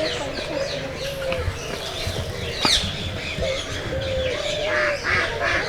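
A crowd of aviary birds calling over one another: many short high chirps and tweets over a string of repeated mid-pitched calls, with one sharp click and a quick falling squeak about halfway through.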